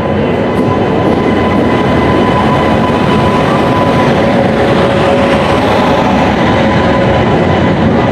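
Express train running into the platform: a loud, steady rumble of wheels on rail, with a faint steady whine above it.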